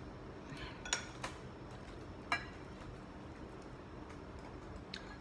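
Eating utensils clinking against dishware a few times, sharp separate clinks with the loudest a little over two seconds in.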